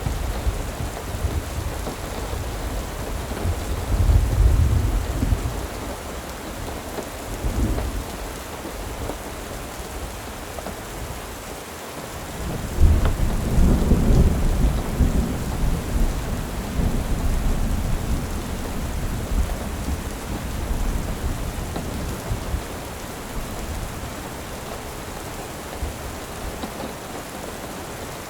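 Steady rain falling, with two low rolls of thunder: a short one about four seconds in and a longer, louder one from about thirteen seconds that fades slowly.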